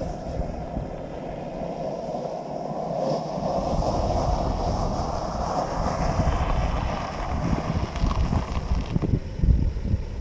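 A vehicle driving, a steady rumble of engine and tyre noise that swells and brightens toward the middle, then drops away about nine seconds in, followed by a few low thumps.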